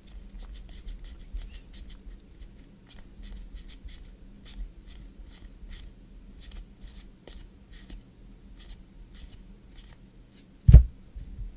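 Pen scratching on paper in a quick run of short strokes, writing a list; a single sharp thump, the loudest sound, comes near the end.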